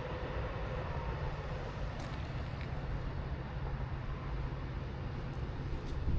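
Metra commuter train running on the tracks, a steady low rumble with a faint, slowly falling whine.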